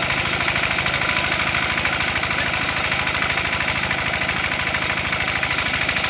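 An engine running steadily with a fast, even pulse that does not change.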